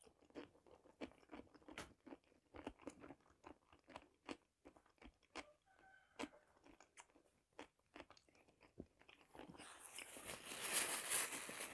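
A person crunching and chewing a pickled cucumber at the microphone: a scatter of short, soft crisp clicks. From about ten seconds in, a paper napkin rustles as hands are wiped.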